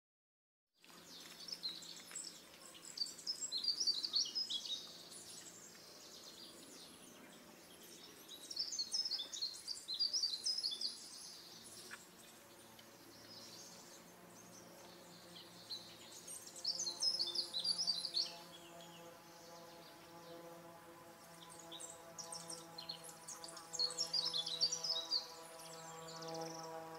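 A songbird chirping in four short bursts several seconds apart, starting about a second in, over soft held background music that swells near the end.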